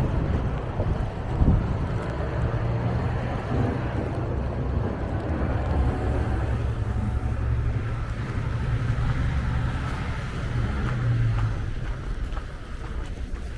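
Steady low rumble of a motor vehicle's engine on a street, with wind buffeting the microphone. The rumble fades out near the end.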